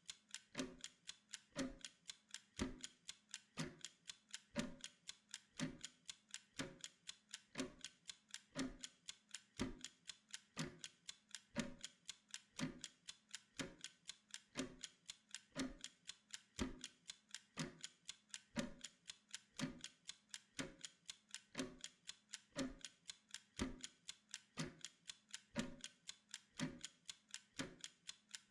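Timer ticking steadily, about two ticks a second: the constant tick of a pomodoro countdown while the work interval runs.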